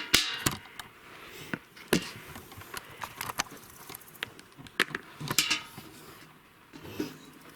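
Footsteps on forest ground, with scattered sharp clicks and knocks at uneven intervals.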